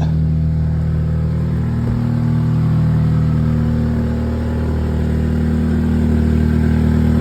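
Car engine idling steadily just after a cold start, with a severe exhaust leak.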